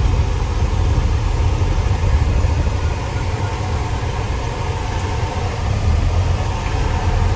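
Grain truck's diesel engine running with a steady low rumble, heard from inside the cab as the truck drives over rough, bone-jarring ground.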